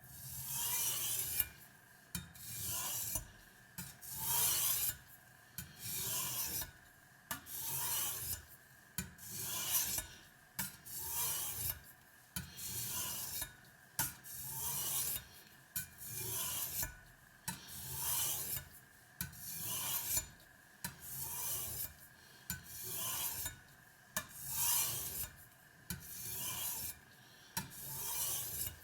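A kitchen knife blade being drawn across a wet Spyderco medium-grit aluminium-oxide bench stone. Each pass is a scraping hiss that swells and fades, repeating in a steady rhythm with short gaps between strokes.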